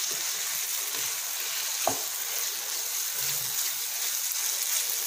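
Chicken and curry leaves sizzling in a little oil in a pan on high heat while a wooden spatula stirs and scrapes through them, with one sharp tap of the spatula on the pan about two seconds in.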